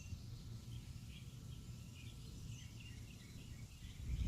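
Small birds chirping faintly over and over, above a steady low outdoor rumble.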